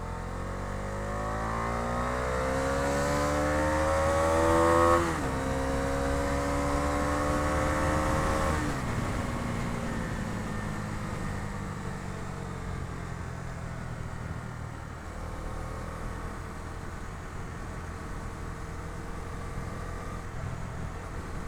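Bajaj Dominar 250's single-cylinder engine accelerating under load, its pitch climbing for about five seconds until a gear change drops it. It pulls again briefly, then about nine seconds in the throttle closes and the engine note falls away into a steady rush of riding noise.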